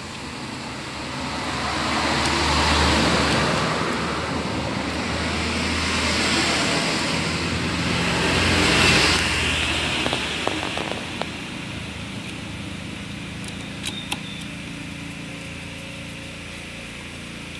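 Road vehicles passing by twice, each a broad swell of noise that rises and fades, followed by a few small sharp clicks.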